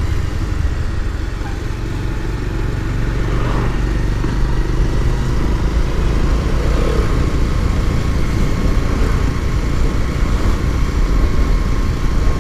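Motorcycle running along a road, a steady engine and road rumble with wind noise on the microphone.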